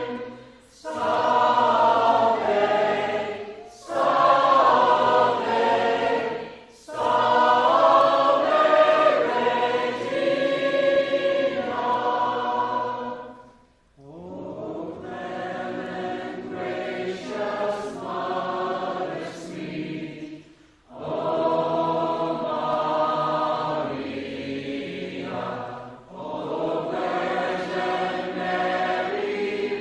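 A choir singing a hymn in phrases, with brief pauses between them. The singing turns softer about halfway through.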